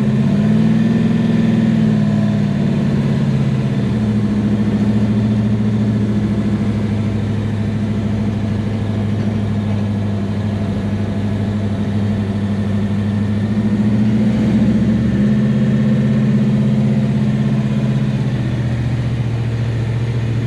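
Big-block V8 of a 1967 Chevelle drag car running steadily under way in second gear. It revs up briefly at the start and eases back a few seconds in, and the note changes about fifteen seconds in.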